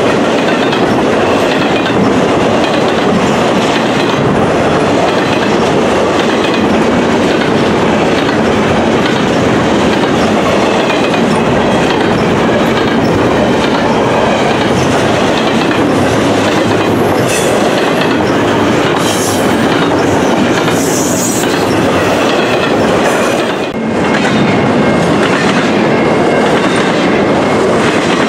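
Double-stack intermodal container well cars of a long freight train rolling past close by: a loud, steady clatter of steel wheels over the rails.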